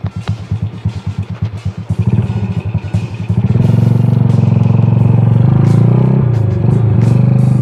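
Yamaha Jupiter Z 115cc single-cylinder four-stroke engine through a CLD racing exhaust, with its engine upgraded. It idles with an even pulsing beat, is blipped about two seconds in, then revved up and held high for a few seconds, dipping once and rising again before dropping back to idle at the end.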